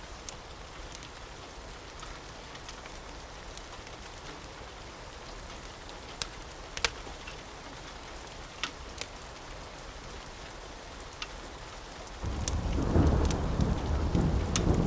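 Steady rain with scattered sharp ticks of drops. About twelve seconds in, a loud low rumble of thunder sets in and keeps rolling.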